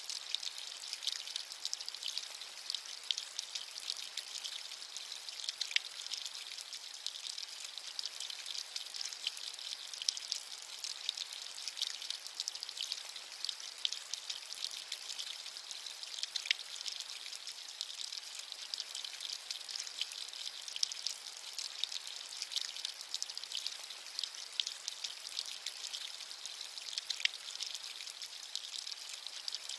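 Steady rain with many individual drops pattering, a bright even hiss with occasional sharper drip ticks.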